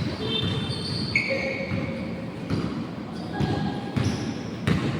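Basketball bouncing on a court during a game: irregular thuds of the ball, with short high squeaks between them.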